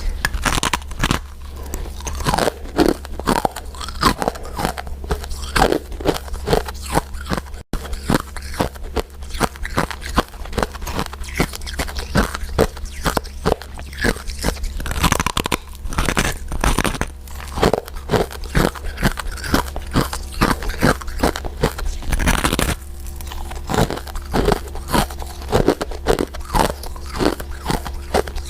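Close-miked chewing and biting of powder-coated mint candies: a dense, irregular run of moist clicks and crunches with no pauses of note.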